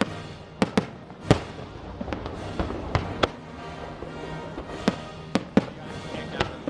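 Fireworks shells bursting in an irregular run of sharp bangs, about a dozen, the loudest about a second in, over background music.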